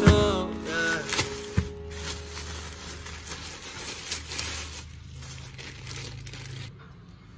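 Plastic mailer bag crinkling and rustling as it is handled and opened, then the white wrapping of the item inside rustling as it is drawn out, the rustling fading toward the end.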